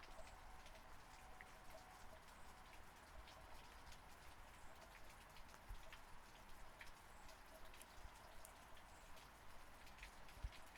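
Faint, steady rain, with scattered individual drops ticking on a surface. A single soft low thump comes near the end.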